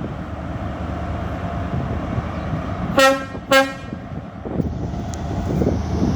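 Horn of HST power car 43186 sounding two short blasts about half a second apart, over a steady low rumble.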